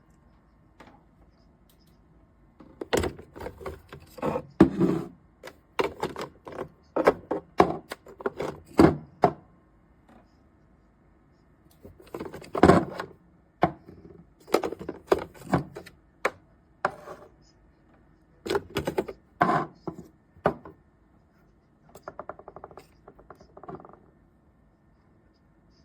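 Irregular knocks and clatters of hard objects being handled, in three bunches with short pauses between them, then a fainter rattle near the end.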